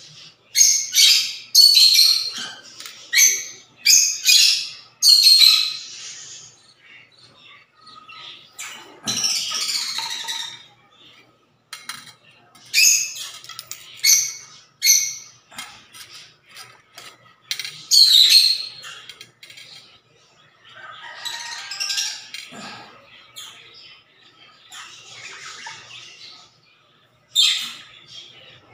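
A bird calling in short, loud, high-pitched chirps and squawks that come in quick runs, with a few quieter pauses between.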